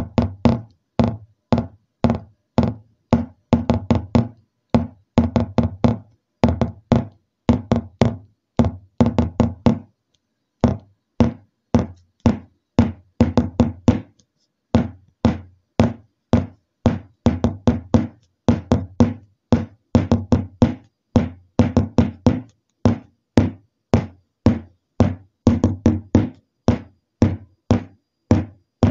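Repeated sharp knocks, two to four a second in uneven runs with brief pauses, each dying away quickly.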